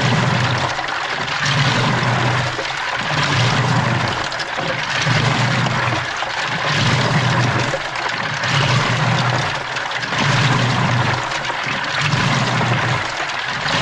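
Washing machine running its wash cycle, heard from inside the drum: water sloshing and rushing, with the drum motor's low hum swelling and dropping in a regular rhythm about every second and a half.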